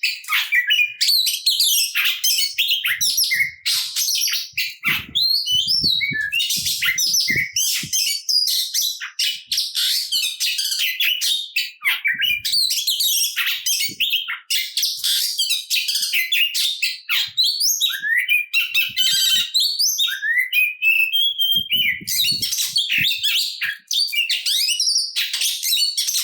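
Oriental magpie-robin singing non-stop, a rapid, ever-changing run of whistles, slurred notes and chattering phrases packed with mimicked material.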